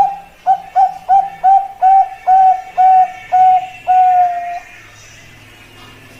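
Zebra dove (perkutut) cooing: a run of about ten short, clear coo notes in quick succession, the last one drawn out longer, ending a little past halfway.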